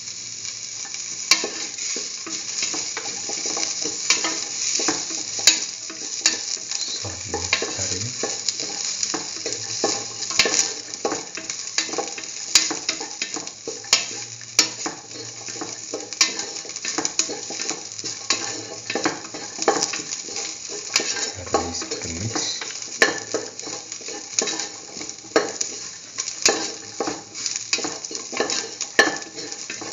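Chopped onion, shallots and garlic sizzling in hot oil in a pan, with a steady hiss and frequent sharp clicks of a spatula scraping and tapping against the pan as they are stirred.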